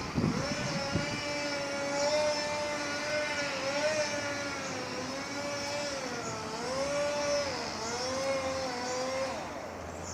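Chainsaw running at high speed. It comes in suddenly, and its pitch dips and recovers several times before it drops away near the end.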